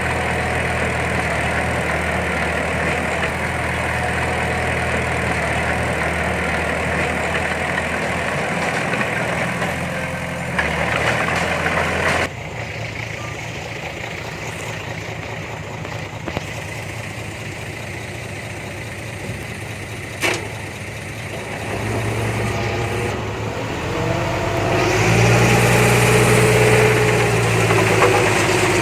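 Diesel engine of heavy earthmoving machinery running steadily. The sound changes abruptly about twelve seconds in, a single knock comes near the twentieth second, and the engine works harder and louder over the last few seconds.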